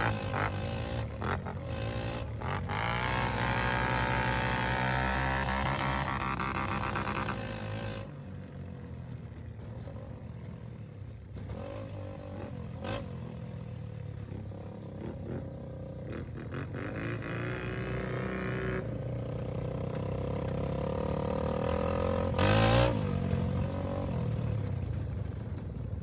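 Off-road vehicle engine revving, its pitch rising and falling repeatedly, with a brief loudest surge a little past the twenty-second mark.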